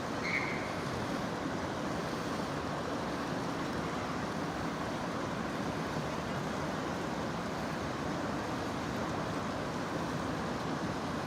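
Steady rushing water of the Merced River, an even, unbroken noise. A short high chirp sounds just after the start.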